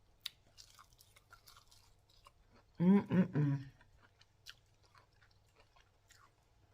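Chewing and crunching of crispy deep-fried chicken wings, with scattered small crunches and mouth clicks. About three seconds in, a short pitched hum of the voice, the loudest sound.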